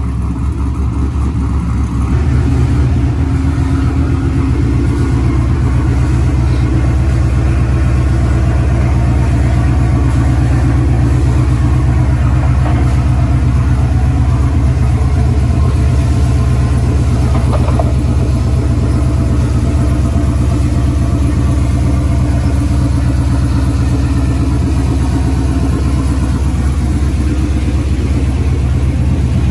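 Cammed 5.3-litre V8 idling through a new Carven R series muffler, a steady, deep exhaust note that gets a little louder about two seconds in.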